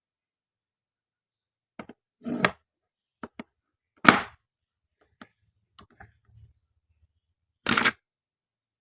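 Handling of toy food pieces: a few light clicks and ticks and a short scraping sound, with two sharper knocks, the loudest about four seconds in and another near the end.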